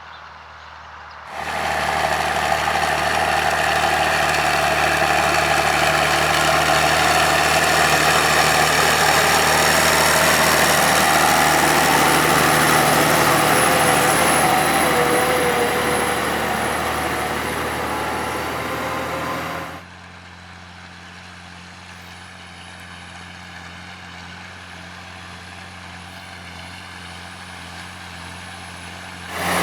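Massey Ferguson 7499 tractor engine running steadily while pulling a plough. It is loud and close for most of the stretch, drops abruptly to a fainter, more distant sound about two-thirds of the way in, and comes back loud right at the end.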